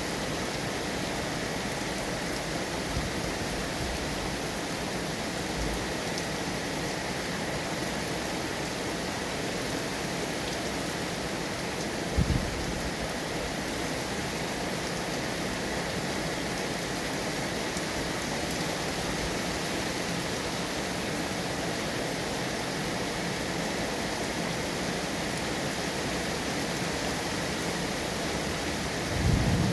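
Steady rain falling, an even hiss, with a brief low thump about twelve seconds in. At the very end a loud low rumble of thunder begins.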